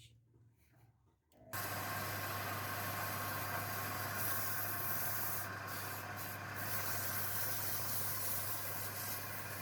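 A machine's motor starts abruptly about a second and a half in and runs steadily, with a constant low hum under a wide hiss.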